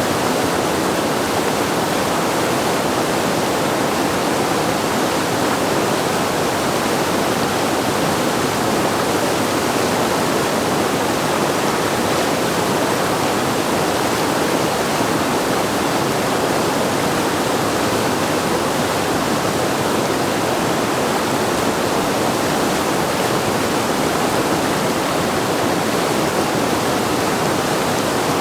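Steady rushing of whitewater at a river standing wave running at high flow, an even, unbroken wash of water noise.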